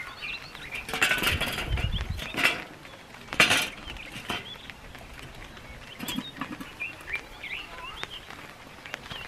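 Small birds chirping again and again in short rising and falling calls. Two louder bursts of rushing noise break in, one lasting about a second and a half starting about a second in, the other brief and sharp about three and a half seconds in.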